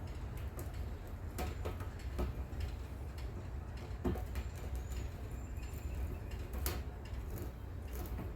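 Scattered light clicks and taps of hand work on a plastic rain barrel, as window screen is pressed in and screwed down, over a steady low rumble.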